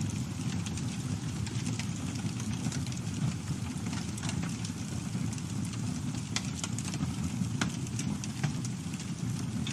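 Campfire burning with a steady low rumble of flames and scattered sharp crackles and pops of burning wood, a few of them louder near the end.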